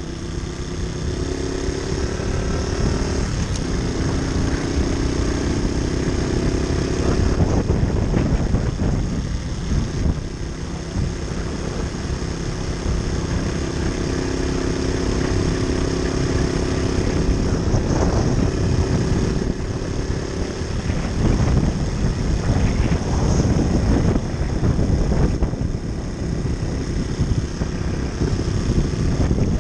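Moped engine running while riding, its pitch holding steady for long stretches over a constant rushing noise.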